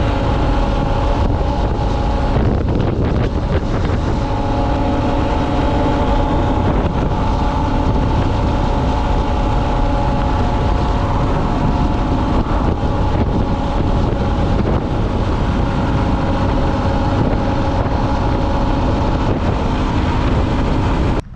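Dual-sport motorcycle engine running steadily at riding speed, with heavy wind noise on the microphone.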